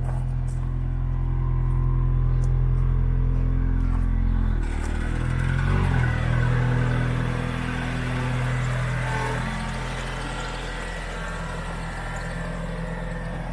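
Fox-body Ford Mustang's engine running steadily, its note shifting up and back down briefly about five seconds in.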